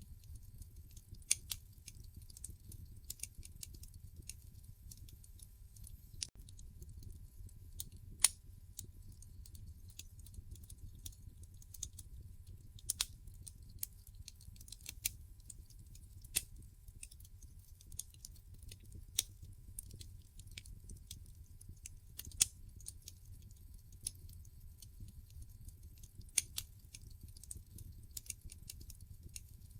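Wood fire in a fireplace crackling: irregular sharp pops and snaps from the burning logs, one every second or two, over a low steady rumble of the flames.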